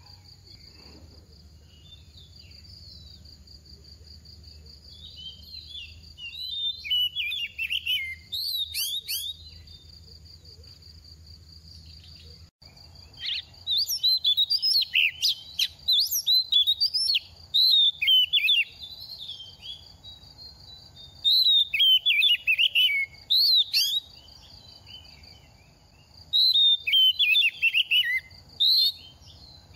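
Oriental magpie-robin singing in several bouts of rapid, varied whistled phrases, with pauses between them. A steady high-pitched whine runs underneath throughout.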